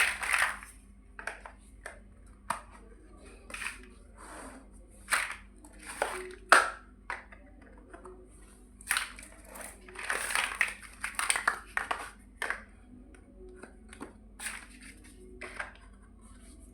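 Plastic building bricks being handled and snapped together: irregular sharp clicks and short rustles, some in quick clusters.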